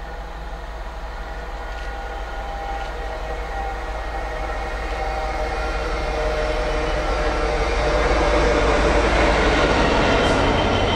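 A train approaching on the main line, growing steadily louder, with steady humming tones over a rising rush of noise.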